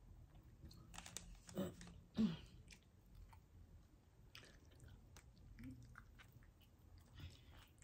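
A person chewing Wingstop chicken wings with soft, wet mouth sounds, a few short louder smacks about one to two seconds in.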